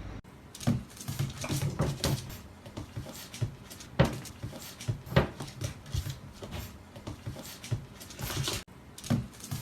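Irregular light taps, clicks and knocks, several a second, with two sharper clicks about four and five seconds in.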